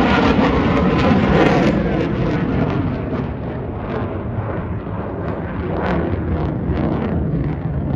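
F-35B Lightning II's F135 jet engine at high thrust, a loud roar of jet noise with crackling through it, loudest in the first couple of seconds and easing slightly after.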